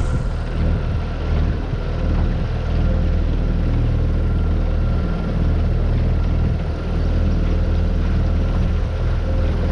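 Tohatsu 9.8 hp four-stroke outboard motor running steadily on a small V-bottom boat: an even engine drone with a low hum and a few steady higher tones.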